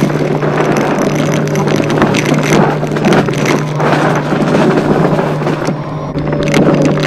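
Vacuum cleaner running, with a steady motor hum under a rushing airflow noise that swells and fades as it is pushed quickly back and forth over the floor.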